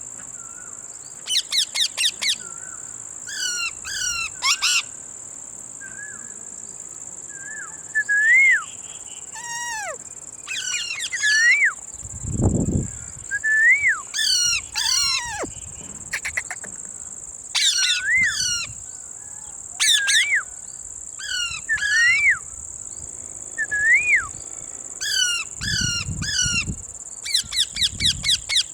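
Ringneck and Alexandrine parakeets calling: clusters of three to six rapid, harsh screeches repeated every second or two, mixed with short rising-then-falling whistles.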